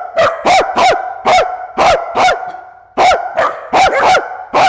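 A dog barking rapidly and repeatedly, about three sharp barks a second with a brief pause a little past halfway. It is excited, agitated barking at newly introduced cats.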